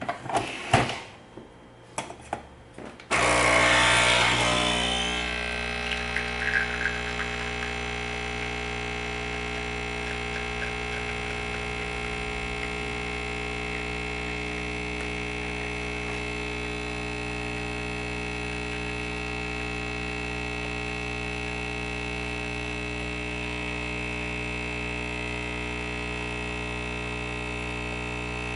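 A few clicks and knocks as a reusable stainless steel capsule is loaded into a Nespresso Original Line machine. About three seconds in, the machine's vibration pump starts brewing the espresso with a steady buzzing hum, louder for the first couple of seconds and then settling to an even level.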